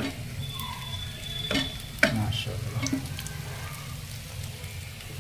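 Food sizzling in a pan, with a few sharp clicks of a utensil against it.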